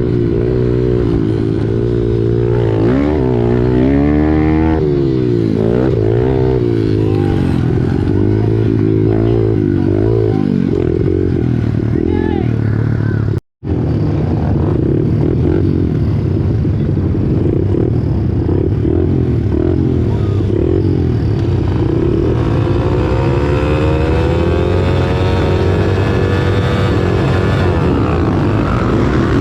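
Pit bike engines racing, the pitch rising and falling over and over as the throttle is worked and the gears change. The sound cuts out for a split second about halfway through.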